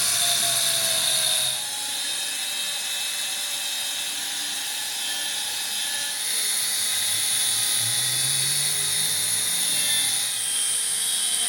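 Steady high-pitched whine and hiss of a machine tool working metal, with small dips and rises in level.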